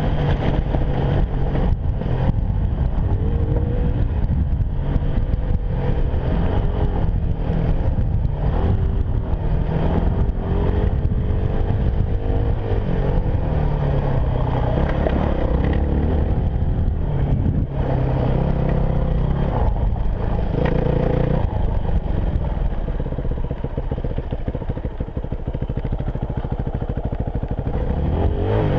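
Yamaha WR250F enduro motorcycle's single-cylinder four-stroke engine running under way, its pitch rising and falling with the throttle, with frequent knocks and rattles from the bike over rough ground.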